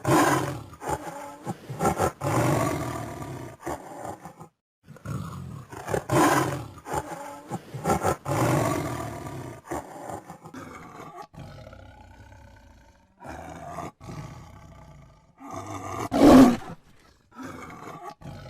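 Tiger roaring and growling: several loud roars with lower, quieter growls between them.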